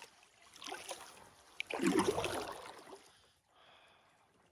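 Kayak paddle dipping into lake water, twice, with splashing and trickling water, the second stroke louder.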